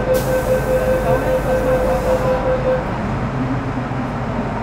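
MTR Metro Cammell M-Train electric multiple unit running in a tunnel, heard from inside the car as a steady rumble. A steady whine from its GEC GTO chopper traction equipment cuts off a little over halfway through. A high hiss sounds for the first two seconds.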